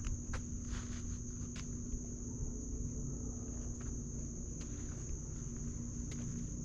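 Insects, crickets, trilling steadily in one high, unbroken tone, with irregular footsteps on a dirt trail.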